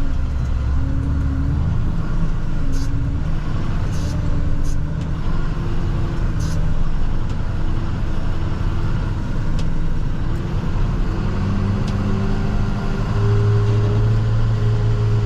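Plow truck's diesel engine running as it drives, its pitch climbing about eleven seconds in and holding higher and louder as the truck speeds up.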